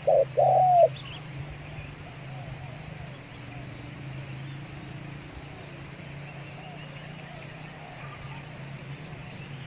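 Spotted dove cooing: two loud coo notes in the first second, then fainter coos repeating through the rest, over a steady high insect buzz and a low hum.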